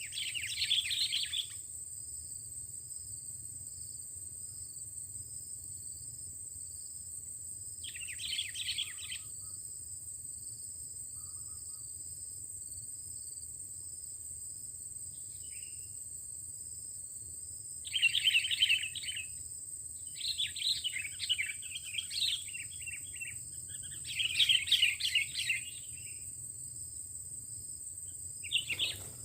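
Sooty-headed bulbul (kutilang) song: short bubbly chattering phrases, one near the start, one around a third of the way in, then a run of phrases in the second half. A steady high-pitched insect trill runs underneath.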